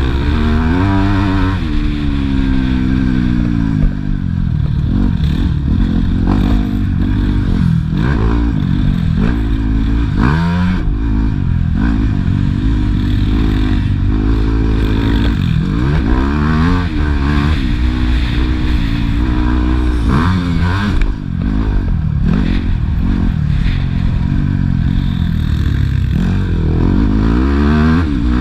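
Motocross bike engine, a Yamaha 250 YZF four-stroke single, revving hard and falling back over and over as the throttle is opened and shut around the track, its pitch climbing and dropping every second or two.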